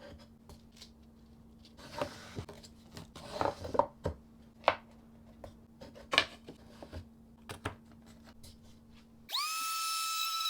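Workshop hand-work sounds: scattered clicks, light knocks and short scraping, tearing-like rustles over a faint steady hum. Music with sustained synth-like tones comes in about nine seconds in.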